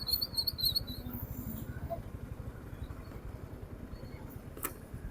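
Steady low rumble of a moving motorcycle ride, mostly wind buffeting the microphone, with a few quick high-pitched chirps in the first second.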